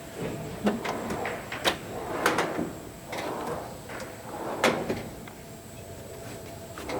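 Hand tools being rummaged and handled in a workshop: a series of sharp clicks and knocks with clattering between them, the loudest knock about four and a half seconds in.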